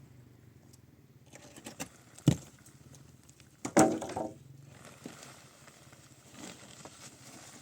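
A few scattered knocks and clatters: a sharp knock a little over two seconds in, and a louder, longer clatter about a second and a half later.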